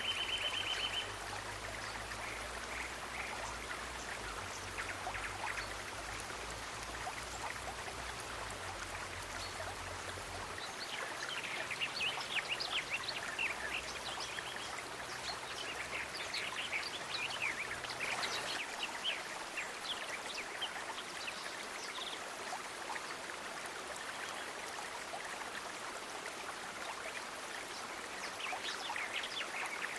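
Water of a small stream running and trickling steadily, with clusters of short, high-pitched chirps or drips from about 11 to 19 seconds in and again near the end.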